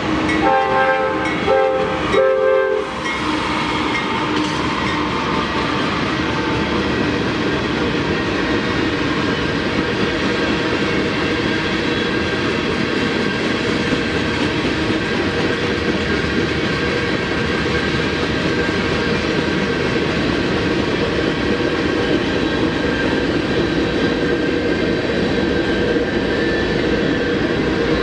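Freight train's air horn sounding in short blasts that end about three seconds in, then the steady rumble and clatter of the freight cars rolling past.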